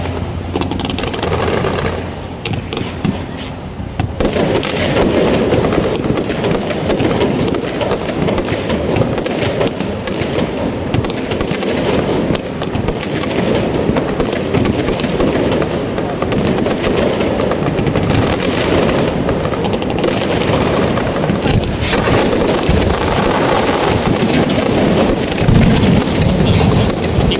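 Aerial fireworks display: a dense, continuous crackle of bursts and bangs that thickens into a heavier barrage about four seconds in.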